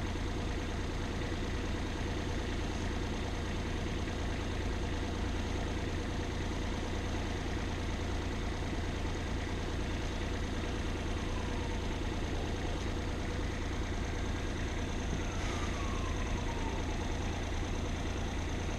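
An engine idling steadily with an even drone. Two faint falling whines come partway through.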